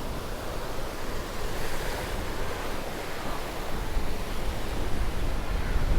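Ocean waves breaking and washing on the shore, with wind buffeting the microphone and adding a low rumble that grows toward the end.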